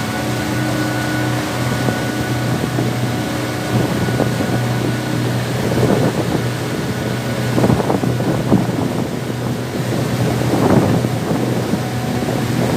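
Passenger boat's engine running steadily under way, with rushing water and wind on the microphone that swell in the middle.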